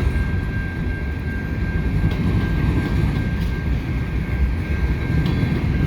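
Freight cars of a CN freight train rolling past with a steady low rumble, a thin steady high tone running over it.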